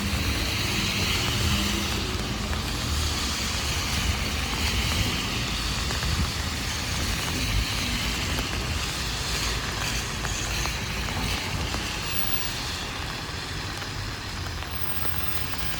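Heavy rain hitting an umbrella over the hiss and rumble of traffic on a wet city street, a little louder in the first half and easing slightly toward the end.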